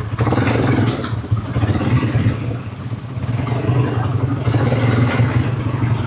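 Quad bike engine running steadily while riding, with rattling and clatter from the bike over rough ground.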